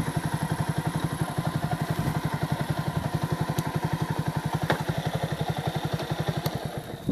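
Motorcycle engine idling with an even putter of about twelve beats a second, then shut off shortly before the end.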